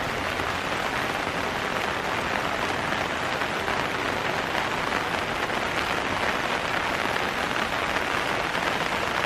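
Heavy rain falling steadily, an even hiss of drops that holds level throughout.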